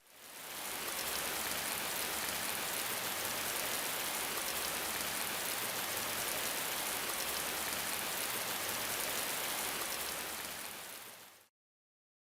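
Steady, even hiss like heavy rain, fading in at the start and cutting off abruptly shortly before the end, leaving dead silence.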